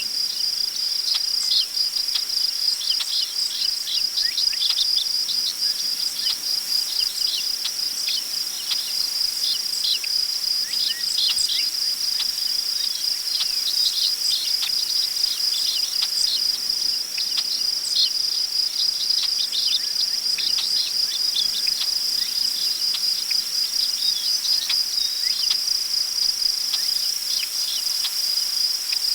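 Crickets chirping in a steady, high, pulsing chorus, with many short high bird chirps scattered over it.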